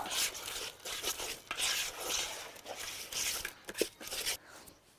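Hands stirring and working powdered carp bait as water soaks into it, a gritty scratching and rustling in uneven strokes.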